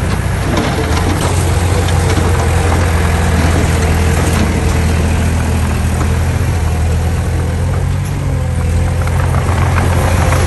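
Heavy construction machine's diesel engine running steadily, easing off slightly about eight seconds in.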